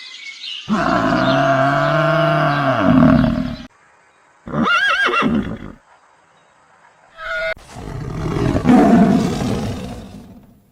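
A run of separate animal calls cut together with short silent gaps: a long low call, then a short high horse whinny about halfway through, then a long rough call near the end.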